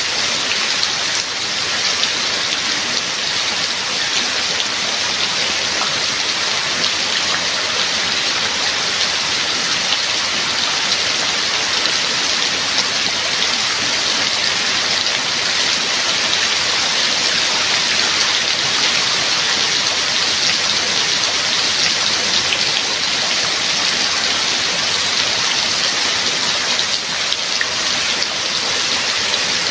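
Steady heavy rain falling, an even hiss of drops with no thunder.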